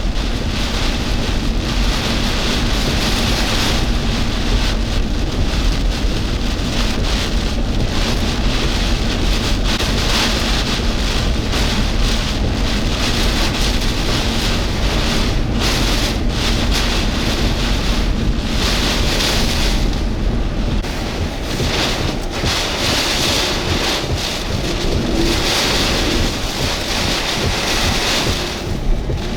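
Category 1 hurricane winds blasting in strong, surging gusts, with heavy wind noise on the microphone and rain.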